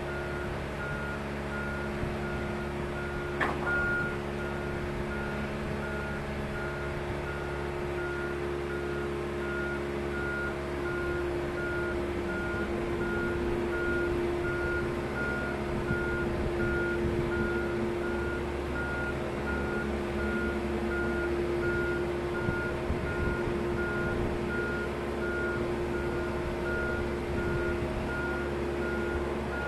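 Warning beeper on a moving boat transport or lift machine: one high-pitched tone pulsing on and off evenly, over a steady machinery hum, with a single sharp click a few seconds in.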